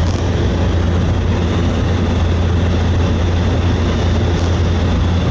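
Cabin drone of a Cessna 208B Grand Caravan's single turboprop engine and propeller in steady cruise flight: a loud, even, low hum with rushing noise over it, unchanging throughout.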